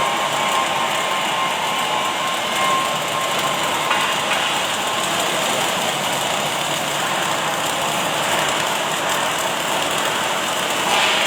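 Automatic arc welding machine running: a steady, even hiss with brief louder moments about four seconds in and near the end.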